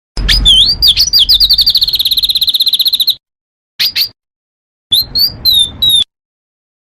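Small songbird singing in spliced bursts: a fast trill of rapidly repeated high notes lasting about two seconds, then two quick notes and a few rising-and-falling whistles. Each phrase cuts off into dead silence, as in an edited birdsong training recording.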